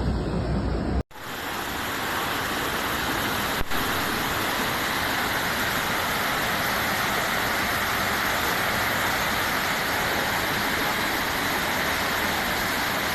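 Steady rushing of water, an even, unbroken noise, which sets in after a short dropout about a second in. A single faint click comes a few seconds later.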